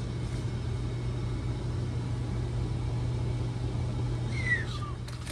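Indoor air handler's blower fan running steadily, a constant low motor hum and rumble, with a brief falling squeak near the end.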